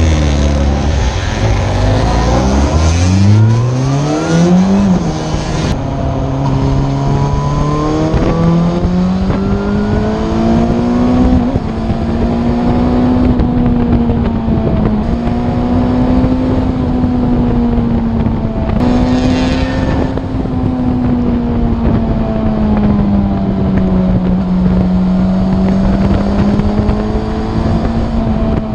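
Yamaha FZ8's inline-four engine with an Akrapovic exhaust, accelerating hard: the revs climb steeply, drop at a gear change about five seconds in, and climb again. It then runs at steady cruising revs that rise and fall gently.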